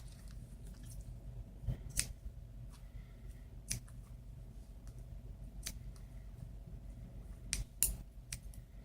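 Scissors snipping through a dog's bandage: a handful of sharp, separate cuts spaced irregularly, one to two seconds apart, with a quick cluster of three near the end.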